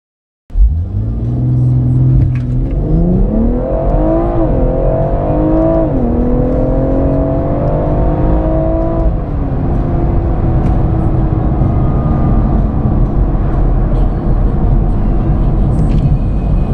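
BMW M140i's turbocharged 3.0-litre straight-six heard from inside the cabin, held at steady revs on launch control, then launching. The engine note climbs with two quick dips at upshifts about four and six seconds in. After about nine seconds the engine note falls away, leaving steady road and wind noise.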